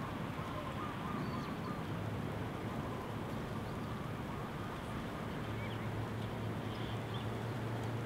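Faint bird chirps and calls over a steady background wash, with a low hum that fades out through the middle and comes back about five and a half seconds in.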